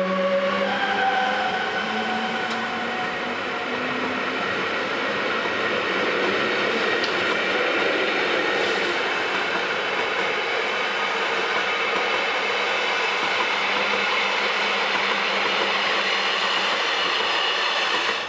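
Rhaetian Railway train running on the track: a steady rush of wheel and rail noise with a faint whine that slowly rises in pitch. A held horn-like tone fades out in the first second.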